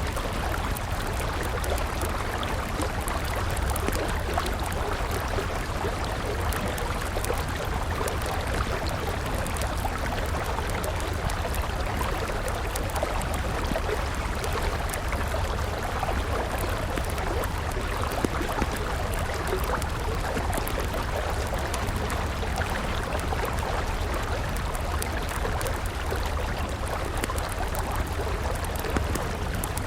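A river flowing steadily, with a wood campfire crackling over it in scattered small pops and a couple of sharper snaps.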